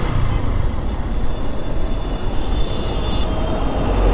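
Yamaha FZ V2 motorcycle and the surrounding traffic heard from the rider's seat in a slow traffic jam: steady engine and road noise with a heavy low rumble.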